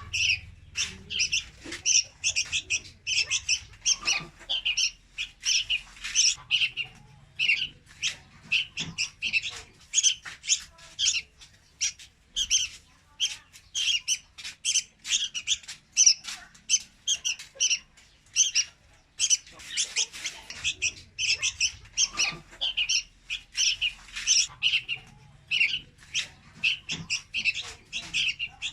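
Young red-whiskered bulbul calling in a fast, unbroken run of short, high chirps, several a second. It is a recorded lure call of the kind used to attract bulbuls into traps.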